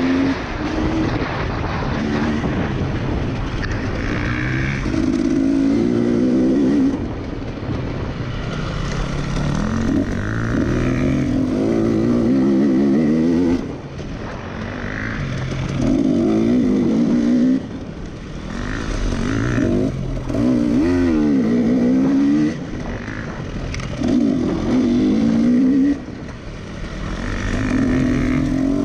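A racing engine revs hard and eases off again and again. Its pitch rises and falls, and its loudness cuts off sharply every few seconds, as when lifting off the throttle or changing gear.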